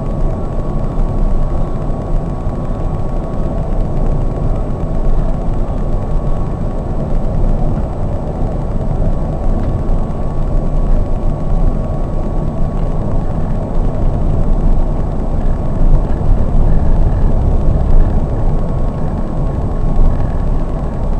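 Scania K420 double-decker coach running at road speed: a steady, dense low rumble of engine, tyres and road, heard from inside the cab, with a thin steady whine above it.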